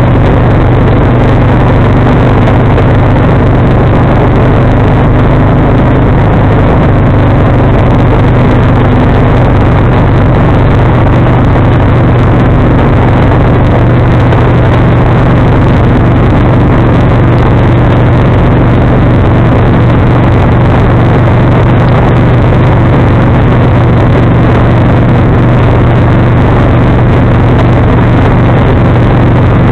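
John Deere 445 garden tractor's engine running steadily while driving its 47-inch snowblower, a constant loud drone with no change in speed.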